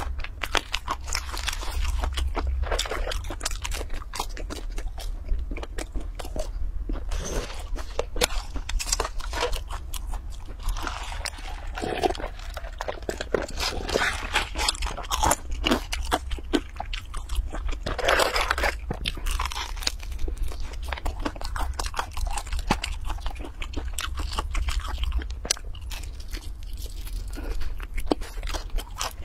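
A person biting and chewing crispy fast food close to the microphone: dense, crackly crunches and chewing throughout.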